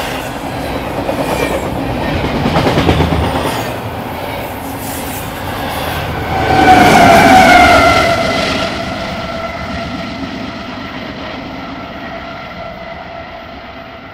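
Freight train passing, its cars rumbling and clicking over the rail joints. About six and a half seconds in, a loud high tone of several pitches sounds, falling slightly and fading. The train grows quieter toward the end.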